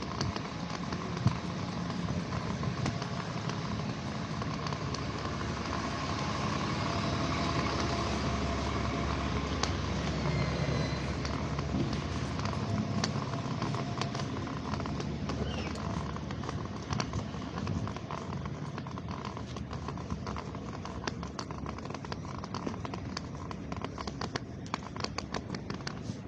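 Wet city street: a large vehicle's engine running close by over a steady hiss, with the irregular clicks of a white cane tapping the pavement, the clicks coming more often in the second half.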